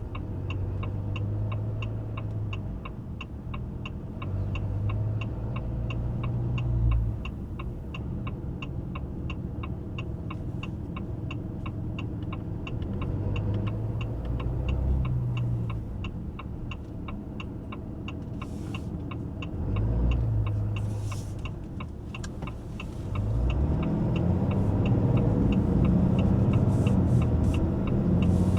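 The truck's 6.7-litre high-output Cummins inline-six diesel running at low speed, its pitch rising and falling a few times, over the steady ticking of the turn signal. The ticking stops about two-thirds of the way through, and the engine then grows louder as the truck accelerates.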